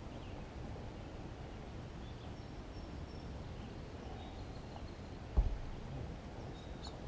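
Outdoor ambience: a steady low rumble with faint, brief high bird chirps scattered through it, and one dull thump about five seconds in.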